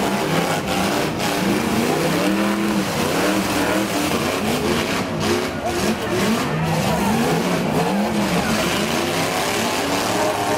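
Several antique demolition derby cars' engines revving and running together, many pitches rising and falling over one another as the drivers gun them around the dirt arena.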